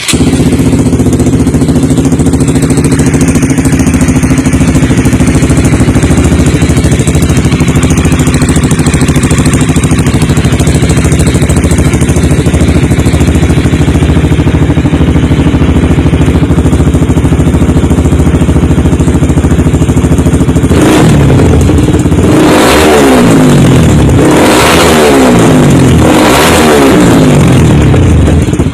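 Honda CBR sport bike's engine through a stainless X-Speed aftermarket racing exhaust, loud, running steadily for about twenty seconds, then revved in a string of quick throttle blips, roughly one every second and a half.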